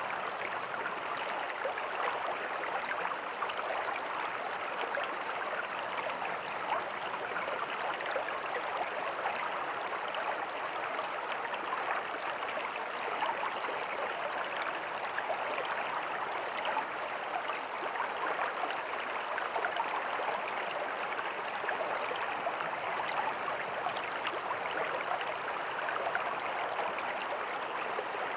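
Small creek flowing over rocks with a tiny waterfall: a steady rush of water with fine splashing and gurgling.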